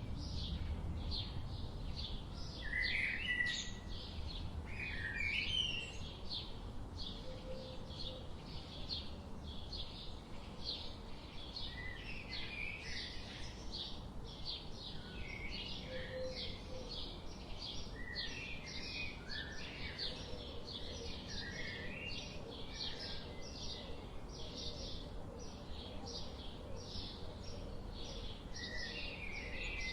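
Forest birds chirping and calling: a steady run of short repeated chirps, about two or three a second, with scattered twittering phrases from other birds, over a low rumble.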